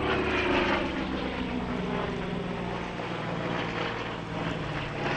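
A Vought F4U Corsair's Pratt & Whitney R-2800 radial engine making a low pass. Its engine note falls in pitch as it goes by.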